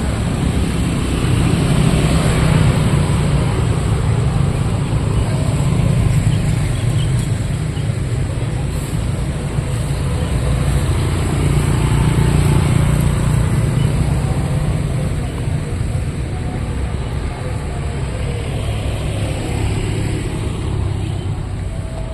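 Street traffic from passing motorcycles and cars: a steady rumble of engines and tyres that swells and eases as vehicles go by.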